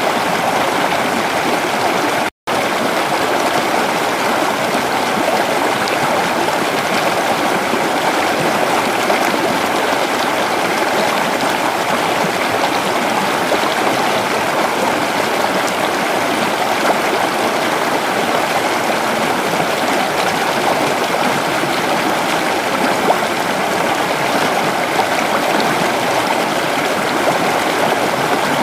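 Creek water running over rocks, a steady rushing and gurgling flow, with a momentary dropout to silence about two seconds in.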